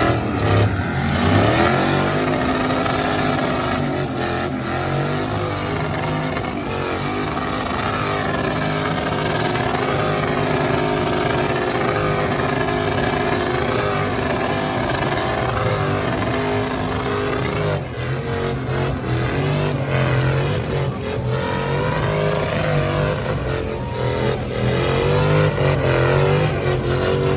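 Loud truck engine running and revving, its pitch rising and falling repeatedly.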